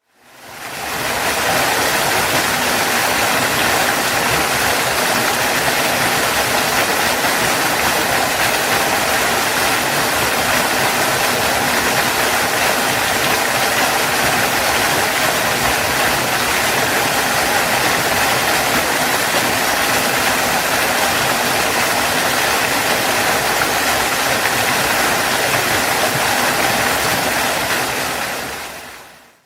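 Waterfall: a steady, even rush of falling water that fades in at the start and fades out again near the end.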